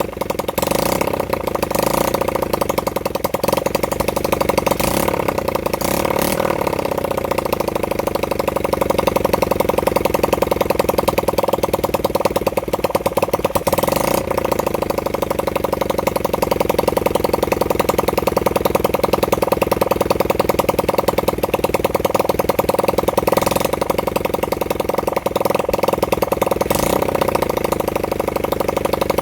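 Honda CB100N's single-cylinder four-stroke engine running, mostly idling, with its speed rising and falling a little now and then. It is a long-dormant engine back running for the first time in over 20 years.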